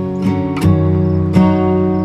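Acoustic guitar music, strummed chords changing about once or twice a second.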